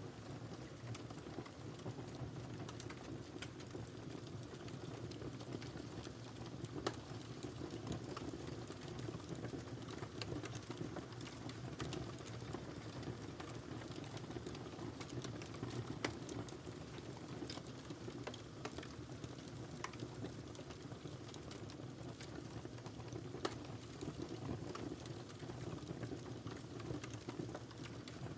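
Wood fire crackling in a fireplace: a steady low rumble from the flames, constant small crackles, and a few louder sharp pops.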